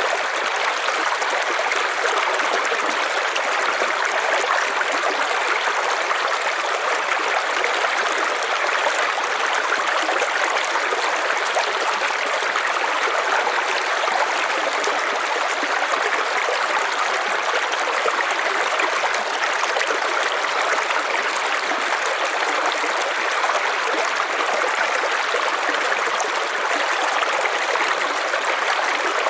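River water flowing steadily over stones, a continuous rushing and babbling with no breaks.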